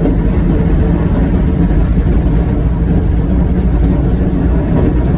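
A John Deere Gator XUV835M utility vehicle running steadily as it pushes snow with its front plow blade.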